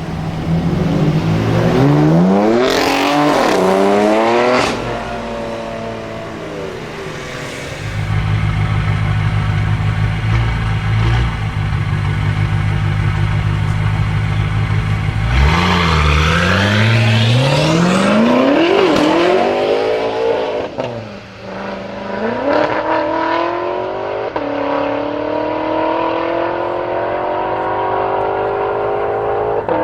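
BMW car engine idling, revved hard twice with quick rises and falls in pitch, then pulling away with the engine note rising steadily through the last several seconds.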